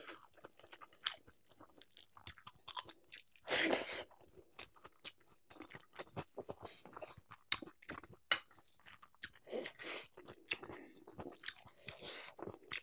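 A person chewing and crunching a mouthful of rice and curry, with many short wet mouth clicks and a louder burst of crunching about three and a half seconds in.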